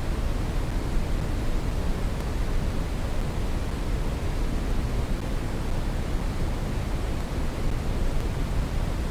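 Steady brown noise: an even, unchanging rush, heaviest in the bass and falling away toward the highs.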